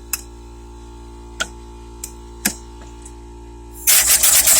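Homemade steam traction engine starting to run in reverse: a few light clicks over a low steady hum, then near the end a sudden loud hissing chuff of steam exhaust, pulsing several times a second.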